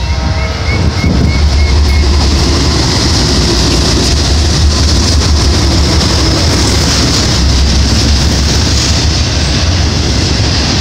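BNSF freight train passing close by: the diesel locomotives' engines rumbling as they go by, then double-stack container cars rolling past with steady, loud wheel and rail noise.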